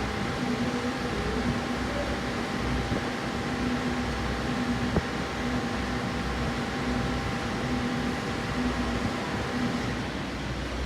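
Steady machine hum with a low throb that pulses about once a second, and a faint click about five seconds in.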